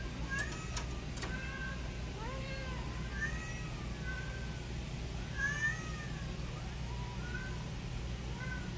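Domestic cats meowing, many short rising-and-falling calls one after another, over a steady low hum, with a few sharp clicks in the first second.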